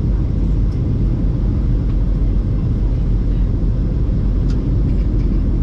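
Steady rumble of jet engines and rushing air inside the cabin of a Ryanair jet airliner descending toward landing.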